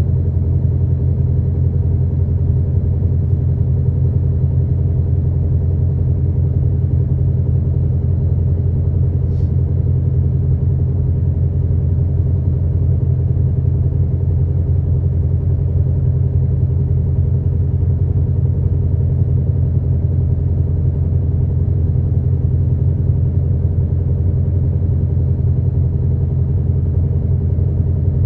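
Route bus's diesel engine running steadily, heard inside the passenger cabin as a low, even drone.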